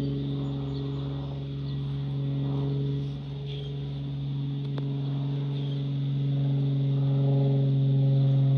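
A steady, low engine drone with one held pitch that slowly grows louder, like an aircraft approaching overhead. A single sharp click falls about halfway through.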